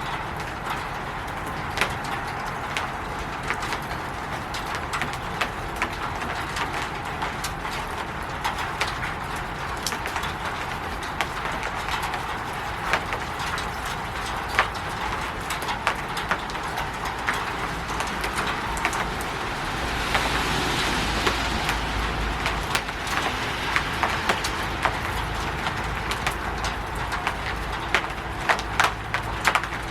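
Rain falling on a roof: a steady patter with many sharp, separate drops and drips hitting. About two-thirds of the way in, a broader rushing swell and a low rumble come in under the rain.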